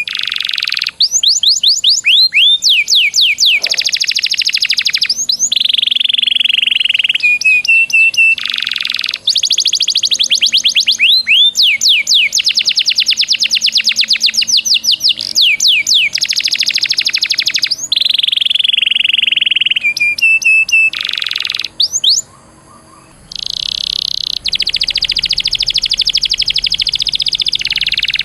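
Domestic canary singing a long song of fast, repeated trills and rolls, broken by short pauses and one quiet gap of about a second near the end.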